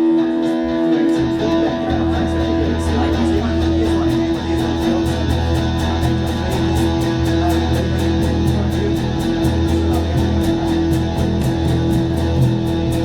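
Live band playing a song: electric guitar, with a bass line coming in about a second in and a steady high ticking beat.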